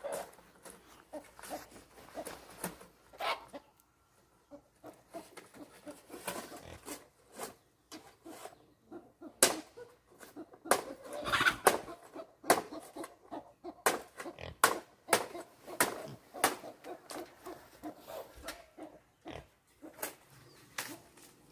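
Pigs grunting, with a string of sharp irregular knocks and clicks; the knocks are the loudest sounds, thickest in the middle of the stretch.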